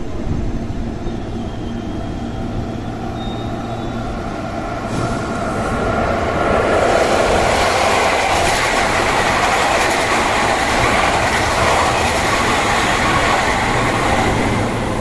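Seibu 001 series Laview electric limited-express train approaching and running past close by, the rumble of its wheels on the rails swelling loud about six seconds in and staying loud as the cars go by.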